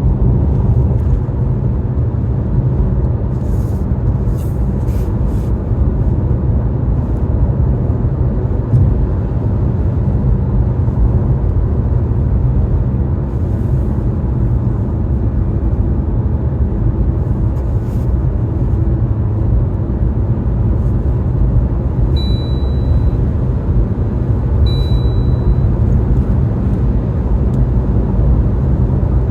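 Steady low rumble of a car driving, road and engine noise with no change in pace, with a few faint clicks and two short high beeps about three seconds apart near the end.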